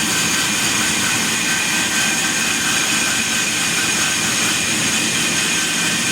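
Sawmill machine running steadily: a dense, even mechanical noise with a high steady whine over it.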